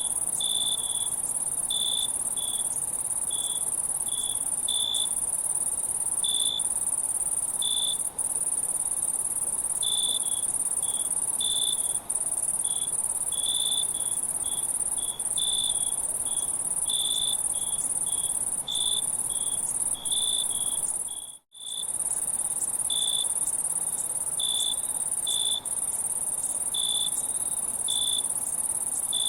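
Insect chorus: a continuous high-pitched trill with cricket-like chirps repeating irregularly over it. The sound cuts out completely for a moment about two-thirds of the way through.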